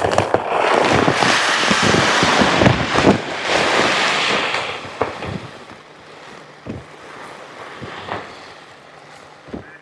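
Layer feed pellets pouring from a bag into a 5-gallon bucket: a dense rushing hiss for about five seconds, then tapering to a thinner trickle with a few scattered rattles.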